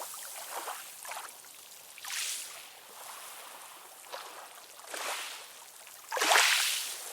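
Ocean waves washing in, surge after surge, with the loudest wave breaking about six seconds in.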